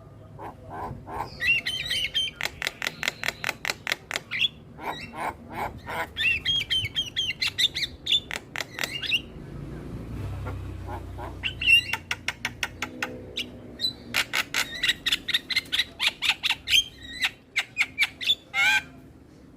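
Javan myna (jalak kebo) chattering: fast runs of harsh clicking notes mixed with wavering whistled calls, in two long bouts with a short lull between them.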